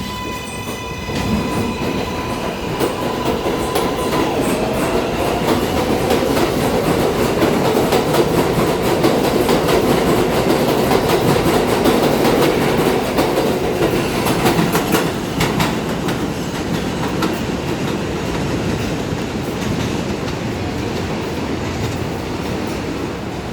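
New York City Subway R188 train on the 7 line pulling out after its doors close. Its motors whine up in pitch as it accelerates, and its wheels clack over the rail joints. It is loudest around the middle and eases off toward the end.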